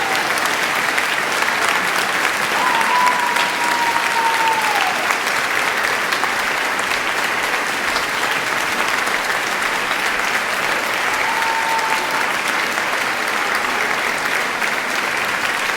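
Concert audience applauding steadily, with a couple of held whistles rising above the clapping.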